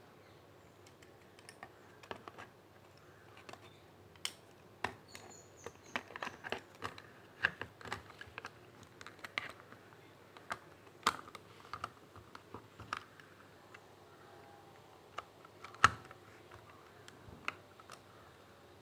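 Irregular light plastic clicks and taps from a computer mouse and its parts being handled and clicked, with one sharper knock about three quarters of the way through.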